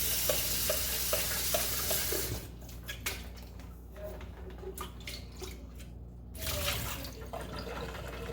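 Water splashing into a kitchen sink as lemon water used to descale an electric kettle is emptied out, a loud rush for about two seconds, then light knocks and clatter, then a second, shorter splash of water about six and a half seconds in.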